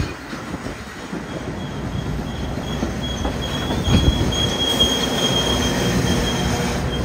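Metra commuter train of bilevel passenger cars rolling past at close range: a steady rumble and wheel clatter, with a thin steady wheel squeal from about a second and a half in and a single knock about four seconds in. The sound grows slowly louder as the diesel locomotive pushing at the rear draws near.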